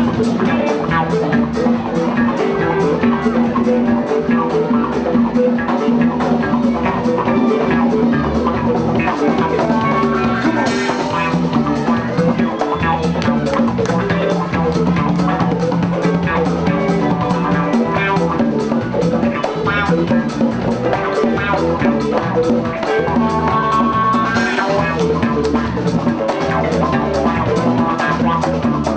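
Live Latin groove band with a large percussion section playing an instrumental passage: drums and hand percussion keep a dense, steady rhythm under sustained pitched notes.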